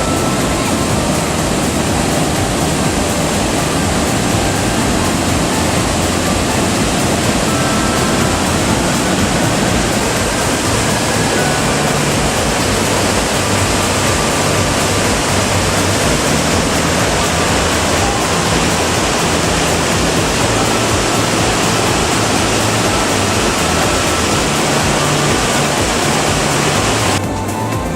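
Fukiware Falls' water rushing and crashing in a loud, steady roar of white noise. The sound's upper range drops away abruptly about a second before the end.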